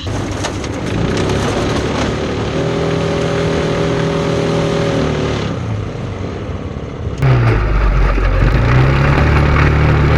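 Small junior race-car engines running on track in a pack, with revving. About seven seconds in the sound switches abruptly to a louder, closer engine.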